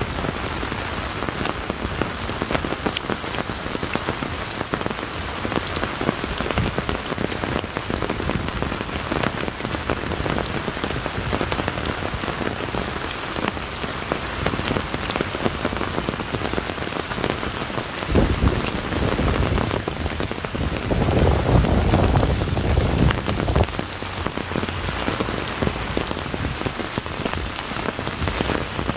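Steady rain falling, a dense patter of drops. In the second half a low rumble swells up twice for a few seconds, louder than the rain.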